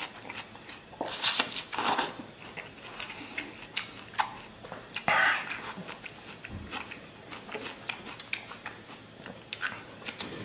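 Close-up eating: crisp bites and chewing of fresh lettuce, with irregular crunches and wet mouth clicks.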